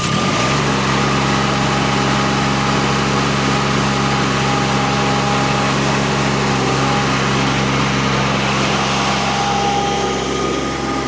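Rippa RS06 mini skid steer's Kubota diesel under throttle, driving the hydraulic Termite disc mulcher as it spins up. The sound rises within the first half-second and then holds a loud, steady note with a whine above the engine.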